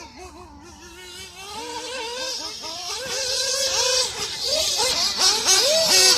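Small nitro engine of a 1/8-scale RC buggy revving up and down in quick throttle blips, a high buzzing whine that keeps rising and falling in pitch and grows louder toward the end.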